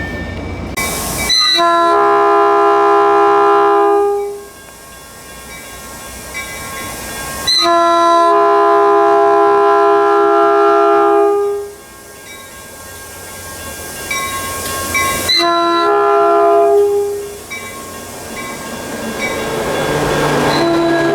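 Caltrain locomotive air horn sounding a chord of several notes in the grade-crossing pattern: two long blasts, then a short one, with a fourth starting just at the end. Rumble from the approaching train rises toward the end.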